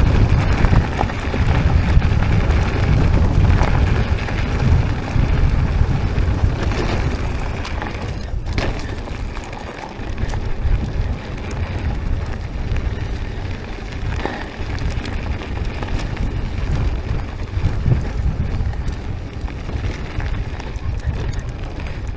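Wind buffeting the microphone while riding a mountain bike, with the rumble of tyres on a dirt trail. The noise eases briefly about halfway through.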